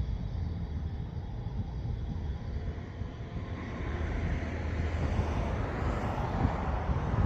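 A vehicle approaching on the causeway road, its tyre and engine noise swelling from about halfway through, over a steady low rumble of wind on the phone's microphone.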